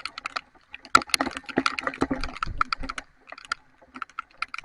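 Raindrops striking close to the microphone in heavy rain: quick, irregular sharp taps, several a second, over a faint hiss.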